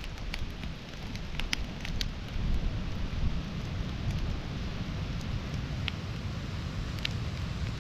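Campfire crackling, with scattered sharp pops, over a low rumble of wind on the microphone.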